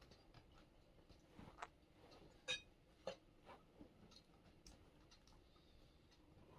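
Near silence with faint, scattered clicks and ticks, the two clearest about two and a half and three seconds in.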